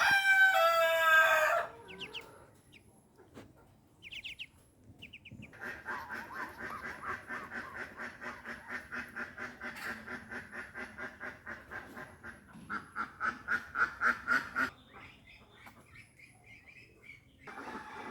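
Domestic poultry calling. A rooster gives a loud crow lasting about a second and a half at the start. About five seconds in, ducks begin a long run of rapid, rhythmic quacking, about three quacks a second, which grows louder and then stops a few seconds before the end.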